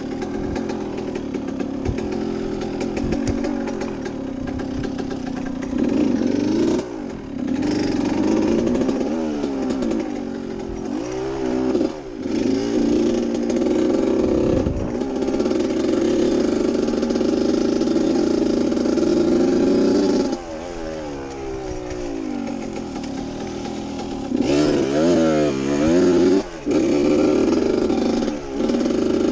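Small dirt bike engine running under way, its pitch rising and falling as the throttle opens and closes, with the sound dropping off briefly several times when the throttle is chopped.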